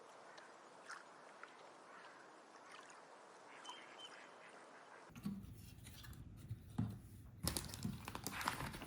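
Faint hiss for about five seconds, then small plastic LEGO bricks clicking and knocking as they are sorted and snapped together.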